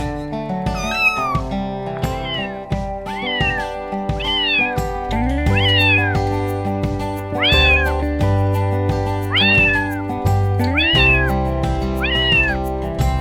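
Domestic cat meowing over and over, about ten short meows each rising and then falling in pitch, a second or so apart, over background music with a steady bass line.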